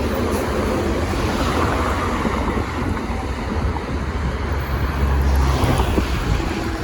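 Motor traffic on a busy road, a steady rumble and tyre hiss with wind buffeting the microphone; the low rumble swells about five seconds in.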